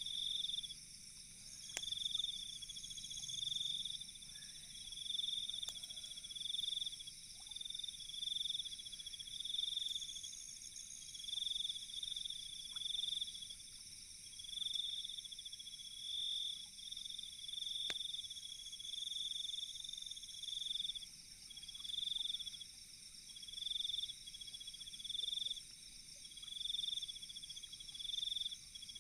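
Night insects trilling in pulses about a second apart, over a steady higher buzz from others, with a couple of faint sharp pops.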